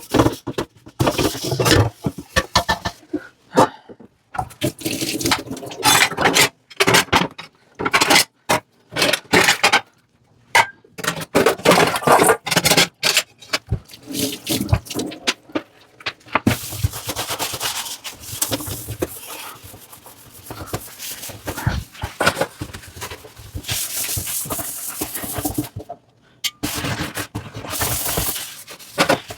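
Dishes being washed by hand in a sink: scrubbing and scraping, with crockery and utensils clinking and knocking in quick, irregular strokes. From about halfway a steady rush of running water joins in, cutting out briefly near the end.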